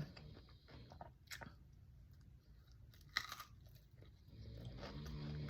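Faint crunching and chewing of a mouthful of cucumber boat (raw cucumber with rice, cream cheese and seaweed), with a couple of sharper crunches.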